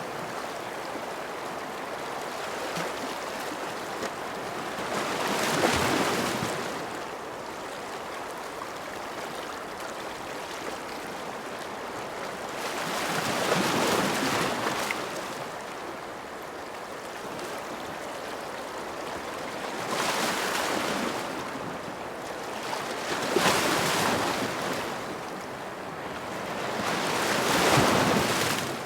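Ocean waves breaking on a shore over a steady wash of surf, with a louder wave about every four to eight seconds.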